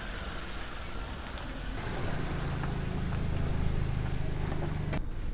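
A car engine running steadily with a low hum, coming up about two seconds in.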